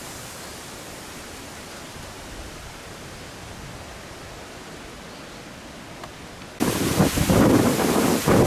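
Steady hiss of typhoon wind and rain, then about six and a half seconds in a sudden jump to much louder gusting wind buffeting the microphone, rising and falling in gusts.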